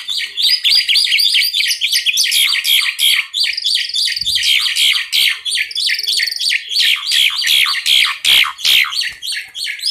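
Two Asian pied starlings (jalak suren) singing together without pause: a dense, fast run of chirps and whistled notes, several to the second.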